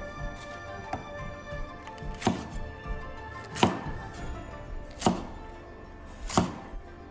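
Knife chopping chili on a cutting board: four heavy strokes about a second and a half apart, with a few lighter taps between.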